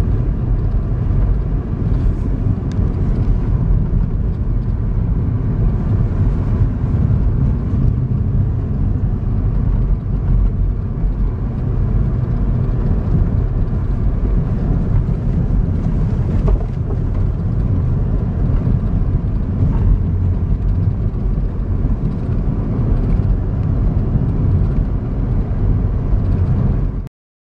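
A car driving on snow-covered roads: a steady low rumble of engine and tyres that cuts off suddenly near the end.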